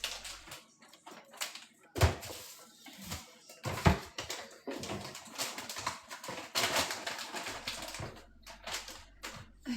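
Snack packages and containers being handled and set down on shelves: several sharp knocks, the loudest about two and four seconds in, with crinkling rustles of packaging between.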